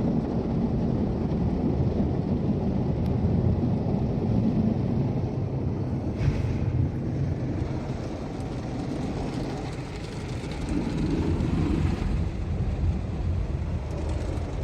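Car engine idling in neutral: a steady low rumble, with a brief noisier patch about six seconds in.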